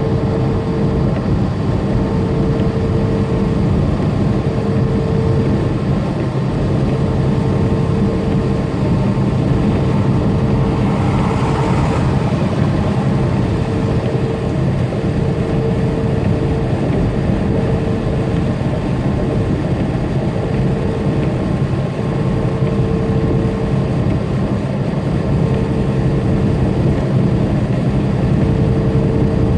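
Steady drone of a tractor-trailer's diesel engine and road noise, heard from inside the cab while cruising, with a brief rising hiss about eleven seconds in.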